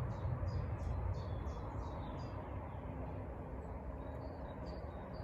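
A small bird chirping quickly, about three short high chirps a second, trailing off to a few scattered chirps after about two and a half seconds, over a low rumble of wind on the microphone.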